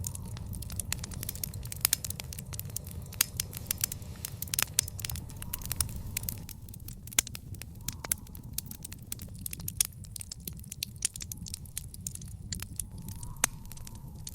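Fire crackling in a backyard fire pit: a dense run of sharp pops over a steady low rumble, the pops thinning out after about six seconds.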